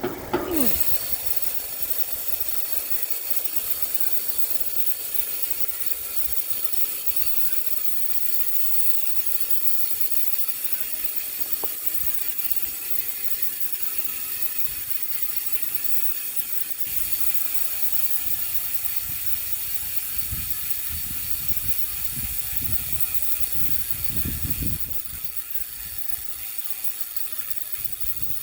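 Nukeproof Neutron V2 rear hub freewheeling, its 36-engagement pawls ticking in a fast, even buzz that slowly falls in pitch as the 29-inch wheel coasts down. Some low rumbling comes in near the end.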